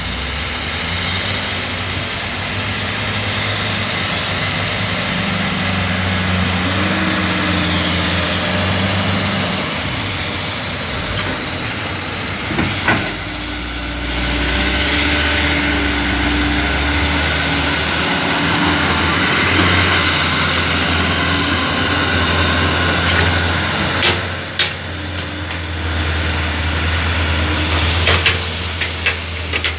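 Heavy diesel engine running loudly, its pitch rising and falling as it is revved under load, with a few sharp knocks about thirteen seconds in and again near the end.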